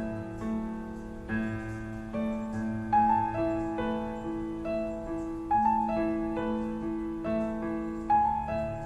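Piano playing a slow melody over sustained chords, notes struck every half second or so, with the same phrase coming back about every two and a half seconds.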